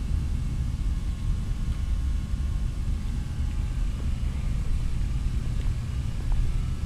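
The engine and propeller of a 1947 Cessna 140 running, heard as a steady low rumble.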